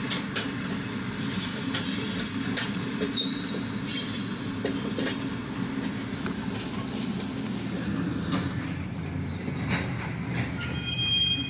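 Freight train of grain hopper cars moving in the yard: a steady low rumble with scattered clanks and knocks, and a faint high squeal about three seconds in and again near the end.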